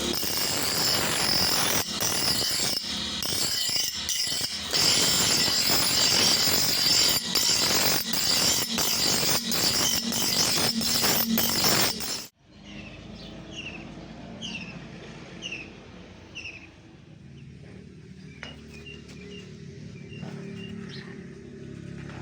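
Loud, rough power-tool grinding on steel with irregular clicks, which cuts off suddenly about twelve seconds in. After it, birds chirp in short falling calls over a low hum.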